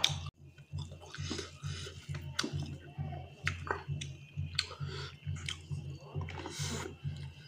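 Close-miked chewing of a person eating a meal of rice and meat by hand: irregular wet clicks, smacks and squishes at an uneven pace, over a steady low hum.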